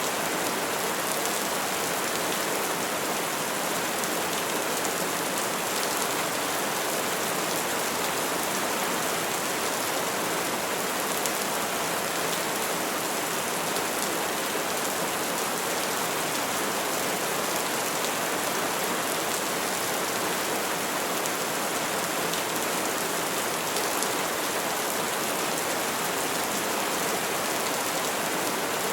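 Steady rainfall pattering on tree leaves, an even hiss of many drops with occasional faint individual drips, unchanging throughout.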